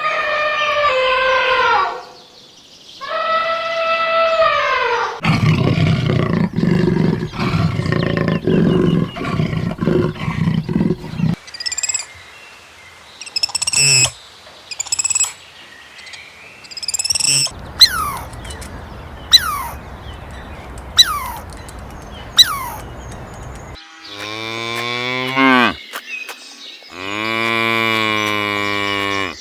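A run of different animal calls one after another. First come long pitched calls, then a stretch of low rough noise from about five to eleven seconds in. After that come short high chirps and quick falling whistles, and near the end a long call that drops steeply in pitch, followed by another pitched call.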